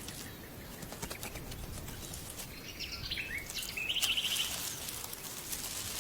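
Outdoor ambience with a short bird call about halfway through: a few quick falling chirps, then a rapid trill, over a faint patter of light ticks.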